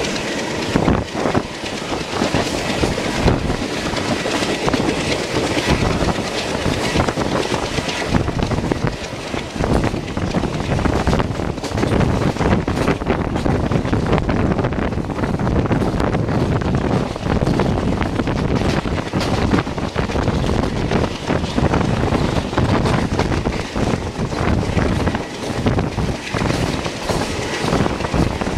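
Passenger train running along the track, heard from a coach window: continuous rail rumble with wheels clattering over rail joints and the rush of passing air. The hiss in the highs softens about eight seconds in.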